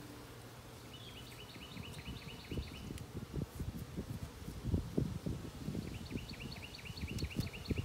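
A songbird sings two fast trills of repeated down-slurred notes, one about a second in and one near the end. Beneath them runs low rustling and buffeting, as of wind on the microphone.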